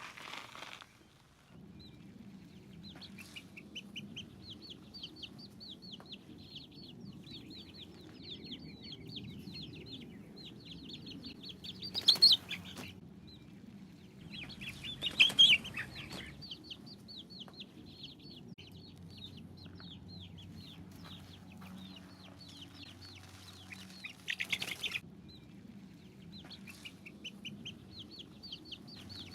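Baby chicks peeping in rapid runs of short high notes, over a low steady rumble. Three louder, sudden bursts of sound come about twelve, fifteen and twenty-four seconds in.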